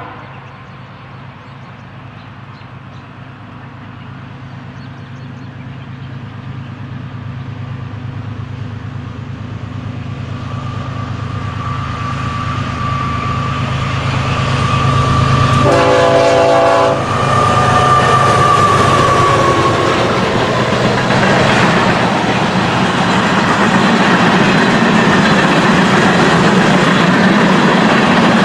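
BNSF diesel train approaching and passing: the locomotive rumble grows steadily louder, one short horn blast sounds about halfway through, and then the wheels clatter over the rails as the train goes by close.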